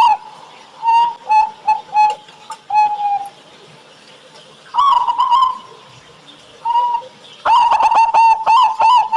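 Zebra dove (perkutut) cooing in clear, pitched notes. After a fast run at the very start come a few separate coos with gaps between them, then a long, quick run of rapid coos from about three-quarters of the way in.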